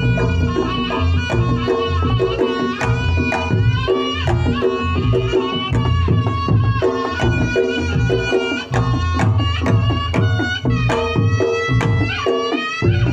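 Reog Ponorogo ensemble playing the standard jathilan accompaniment: fast, steady kendang drum strokes under a high, bending reed melody from the slompret, with sustained metal gong-chime tones beneath.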